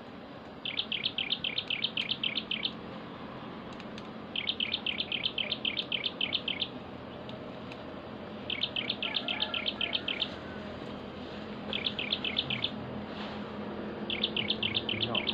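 A bird repeating a fast, high trill of evenly spaced notes, five phrases of one to two seconds each with short pauses between them.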